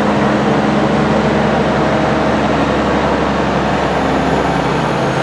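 Large vehicle engine running steadily close by, a low rumble with a constant hum.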